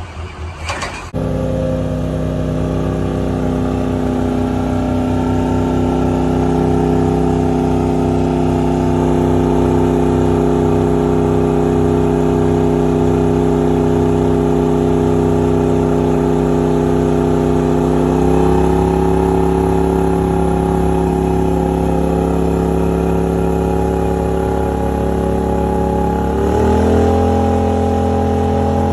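Truck engine held at a steady high rev, jumping up in pitch twice: once past the middle and again near the end.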